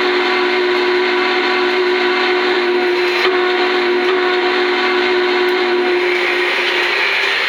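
Onboard sound system of a Lionel Union Pacific Big Boy O-scale model steam locomotive blowing a long, steady, multi-tone steam whistle that stops about six seconds in, leaving the running noise of the train on the track.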